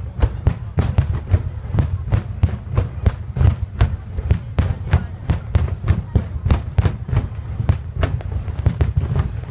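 Fireworks display: a rapid, irregular string of sharp bangs and crackles, several a second, over a continuous deep rumble of booms.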